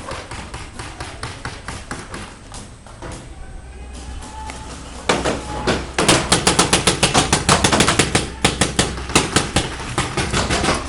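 Paintball marker firing. Fainter scattered shots come first, then from about five seconds in, loud rapid strings of shots close by.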